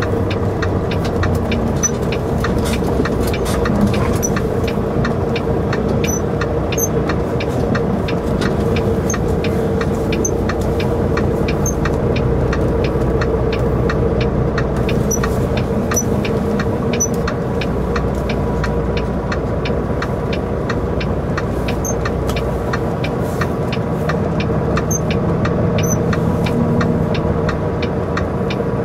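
Semi-truck engine and road noise heard inside the cab, steady, with a constant hum and frequent light ticks.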